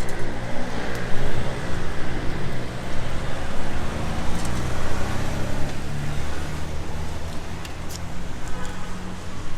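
A motor vehicle's engine running close by, a steady low rumble over street noise that eases off near the end.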